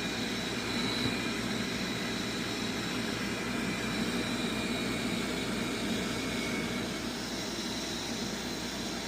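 Furnace fan motor running steadily, a constant whoosh of air with a faint high whine, while the gas valve stays shut and the burners do not light.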